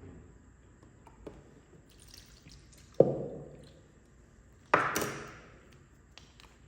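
Two sharp knocks of kitchenware, about two seconds apart, each ringing briefly as it dies away; the second is brighter.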